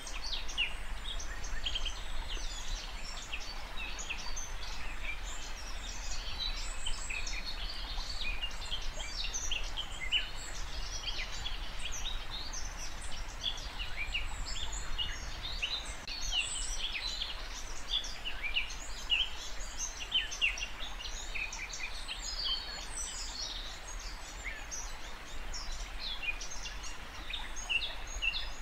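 A dense chorus of many small birds chirping and singing without pause, quick overlapping high notes and trills, over a faint low steady hum.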